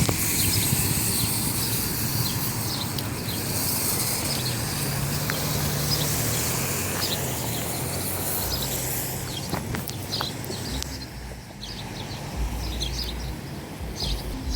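Small birds chirping in short repeated calls over a steady outdoor noise haze, with a low rumble near the end.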